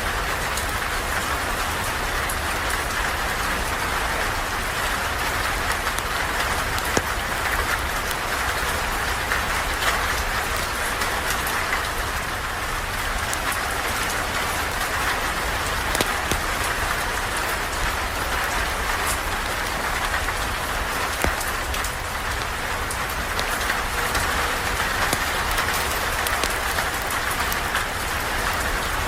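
Steady rain falling, with a low rumble underneath and scattered sharp clicks and crackles from a campfire.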